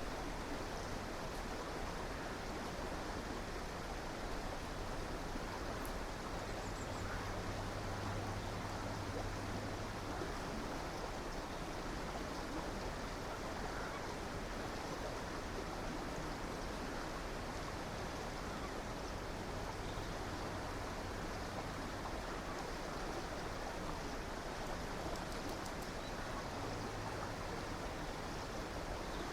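River water flowing steadily with an even rushing sound.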